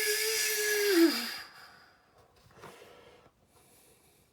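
A person's voice imitating a jet engine spooling up: a steady whine with a hiss over it that drops in pitch and dies away about a second in, followed by faint breathing.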